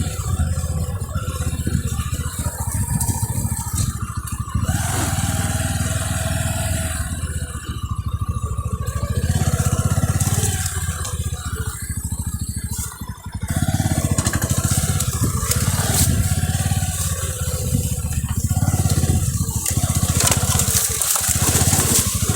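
Motorcycle engine running, with rattling and clatter. The sound dips briefly about halfway through, then picks up again.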